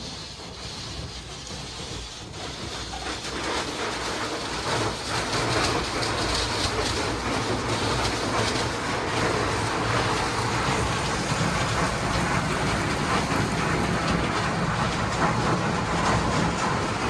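Automatic gantry car wash working over the car, heard from inside the cabin: water spattering on the body over a steady machine rumble. It builds over the first few seconds and then holds steady.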